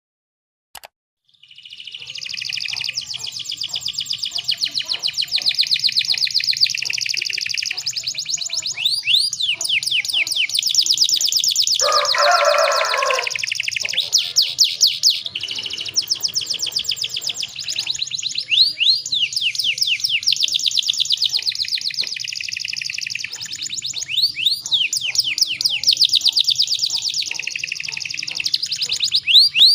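Canary singing without a break: long runs of rapid trills and rolls, high-pitched. The song starts about a second and a half in, and a short, lower-pitched burst cuts in around the middle.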